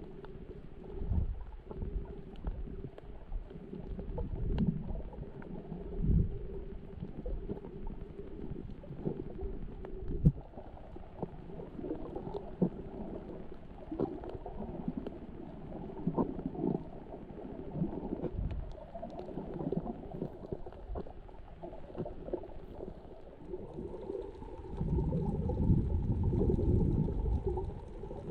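Muffled underwater sound: low rumbling and gurgling with irregular soft knocks, growing louder near the end.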